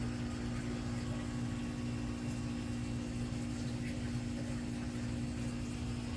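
Steady low electrical hum with a buzzing tone that does not change.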